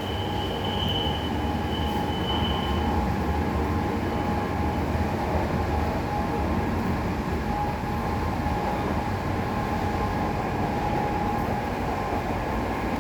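Metro train running between stations, heard inside the coach: a steady rumble, with a high thin squeal that fades out about three seconds in.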